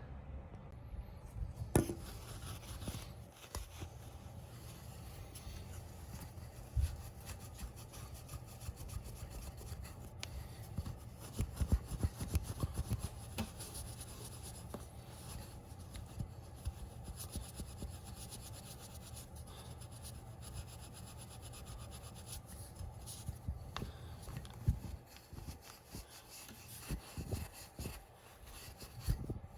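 Fine steel wool pad scrubbing back and forth on rusty chrome motorcycle rims and wire spokes, a continuous scratchy rubbing that strips off surface rust. Occasional light knocks are heard, most of them about a dozen seconds in.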